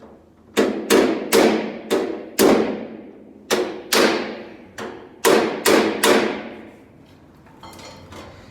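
A body-shop hammer beats a dented steel car-body panel: about eleven sharp ringing blows, five, a short pause, then six more, a little under two a second. This is the panel being worked back into shape.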